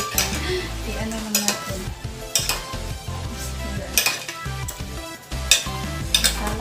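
Chicken sizzling in tomato sauce in a pan while a spoon stirs it, scraping and clinking against the pan about six times.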